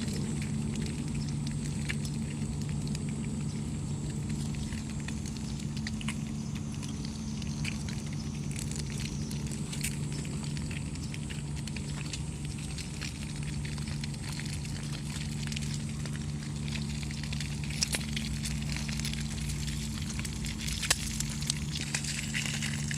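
Small fire crackling in a homemade aluminium-can fire pit, with scattered sharp pops, a few louder ones near the end, over a steady low hum.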